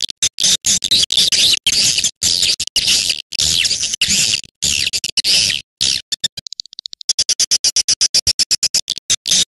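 Swiftlet call recording as played to lure swiftlets: a fast, unbroken train of harsh, buzzy chirps broken by brief gaps, with a quick run of fine clicks about six seconds in.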